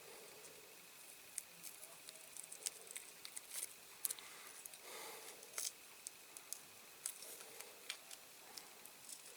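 Faint, scattered clicks and scratches of small close-up handling: masking tape being picked with a fingernail and peeled off a repainted diecast model car's body.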